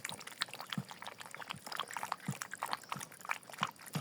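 Several puppies lapping and slurping porridge together, a quick irregular patter of small wet smacks.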